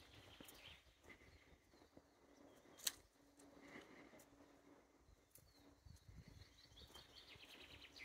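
Faint songbirds calling, with a quick trill of rapid notes near the end. A single sharp click about three seconds in.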